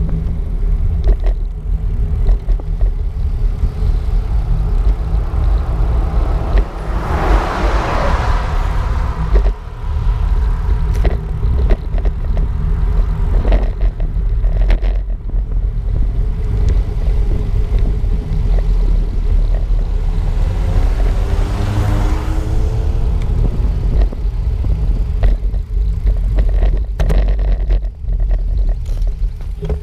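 Steady wind rumble on the microphone of a camera riding along on a moving bicycle, with light clicks and rattles. Two motor vehicles pass, about eight seconds in and again about twenty-two seconds in.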